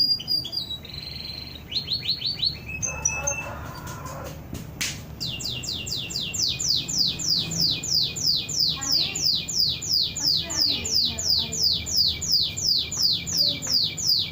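Domestic canary singing: a few seconds of varied short whistled notes, then a long roll of quick falling notes repeated evenly about three times a second, which the owner likens to a yellow-vented bulbul's song.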